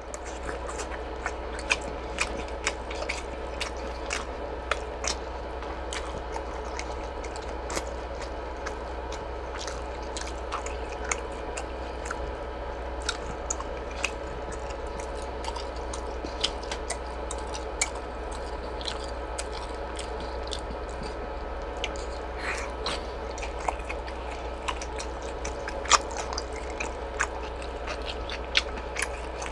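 Close-miked chewing of suyuk, boiled pork slices: a steady stream of small sharp mouth clicks and bites, a few louder ones near the end, over a constant low hum.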